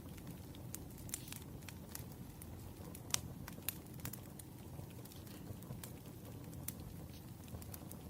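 Scattered light clicks and taps of pen and paper stationery being handled on a desk, irregular and of varying loudness, with the sharpest about three seconds in, over a low steady hum.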